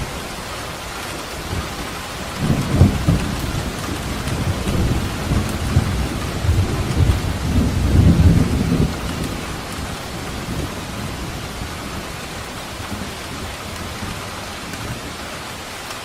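Steady rain falling, with a long, rolling rumble of thunder that swells a couple of seconds in, peaks again about halfway through, and dies away into the rain.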